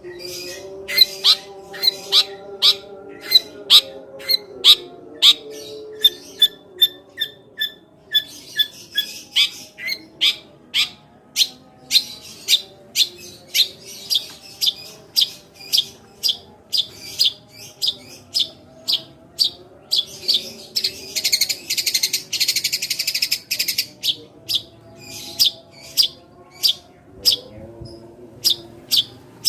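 Long-tailed shrike (cendet) singing sharp, sparrow-like chirps in a rapid run of about two a second. About twenty seconds in, the chirps give way to a dense burst of chatter for a few seconds, then the chirping resumes.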